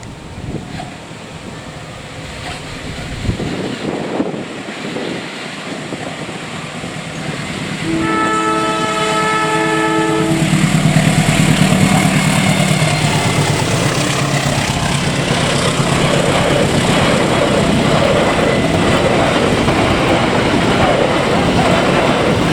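Diesel-hauled train approaching: the locomotive's horn sounds one long chord of several tones about eight seconds in, then the locomotive and its carriages pass close by with a loud, steady rumble and clatter of wheels on the rails.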